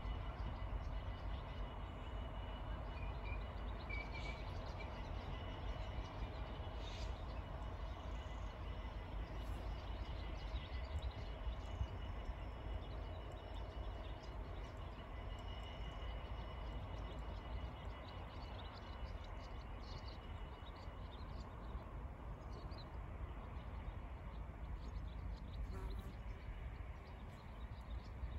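Distant passenger train running past, a steady low rumble, with a few bird chirps about three to four seconds in.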